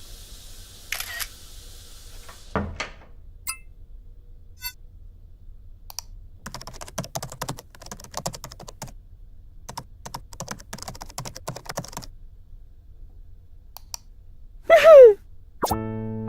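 Scattered sharp clicks, then a dense run of quick clicks and taps lasting several seconds. Near the end comes a loud, short tone that falls in pitch, and music starts just after it.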